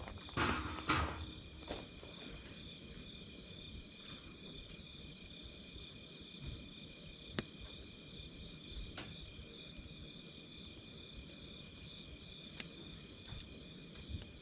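Campfire crackling with scattered sharp pops, a louder flurry of crackles in the first second, over a steady high chirring of crickets.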